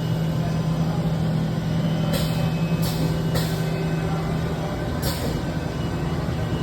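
Steady machinery noise: a low hum that cuts out about two-thirds of the way through, with short bursts of hissing air, four of them spaced about half a second to two seconds apart.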